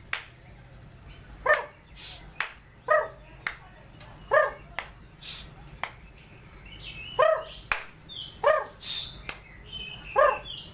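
A dog barking about six times, at uneven gaps of one to three seconds, with high songbird chirps and whistles and a few sharp clicks in between.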